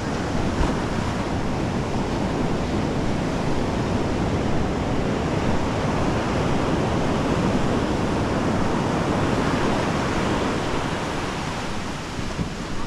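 Ocean surf breaking and washing up a sandy beach: a steady, full rush of water that eases slightly near the end.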